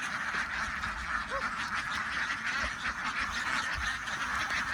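A large flock of ducks quacking together in a steady, dense chatter.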